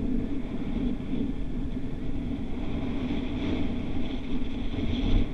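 Steady rushing and rumbling of airflow over the microphone during a ridge-soaring flight, with a constant low hum and hiss.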